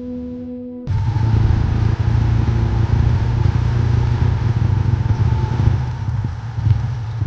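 A held musical chord cuts off about a second in, and a motorcycle engine takes over, running steadily at riding speed with rushing wind and road noise.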